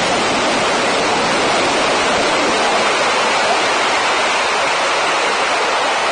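New Shepard booster's BE-3 rocket engine firing during the powered descent to landing: a loud, steady noise with no breaks.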